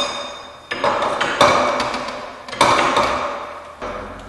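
Steel winding rods clanking in the winding cone of a garage door torsion spring as the spring is wound in quarter turns. Three or four sharp metallic clanks about a second apart, each ringing briefly.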